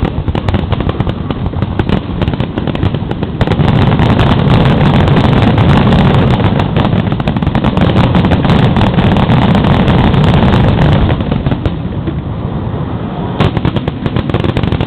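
Fireworks heard from right at the launch site: a rapid, continuous barrage of shell launches and bursts with a heavy rumble, densest and loudest from about four to eleven seconds in, then thinning out, with one sharp bang near the end.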